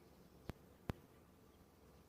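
Two short, sharp clicks less than half a second apart, the second slightly louder, over a faint steady hiss.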